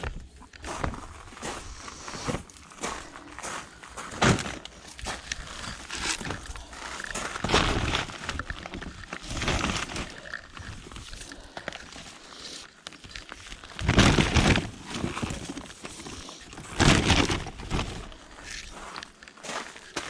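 Debris in a skip being rummaged through and moved by hand: irregular knocks, crunches and rustling, with two louder bursts of clattering about two-thirds of the way through.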